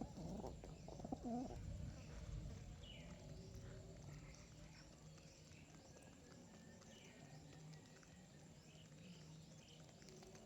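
Pigeons cooing softly, with small birds giving short, faint chirps now and then. The cooing is louder in the first second and a half.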